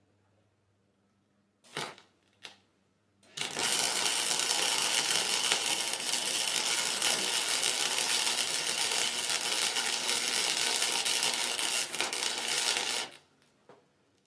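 Wire-feed welder arcing while welding a lawn mower's differential: two short strikes about two seconds in, then one steady crackling run of about ten seconds that cuts off near the end.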